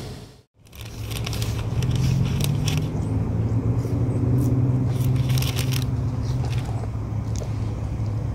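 Steady low rumble of a car engine running, with scattered light clicks and rustles close to the microphone. It starts after a brief silence under a second in.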